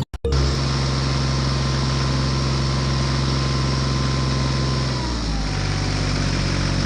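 A motor running steadily with a low, even hum. About five seconds in its pitch drops slightly, as if it comes under load or slows.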